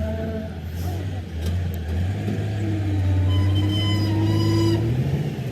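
Heavy diesel engine running steadily, its revs rising a little around the middle and again near the end.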